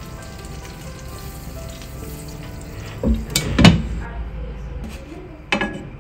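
Oil sizzling softly under thick pancakes frying in a non-stick pan, with background music. A loud clatter comes about three seconds in, and a spatula scrapes the pan near the end as a pancake is lifted.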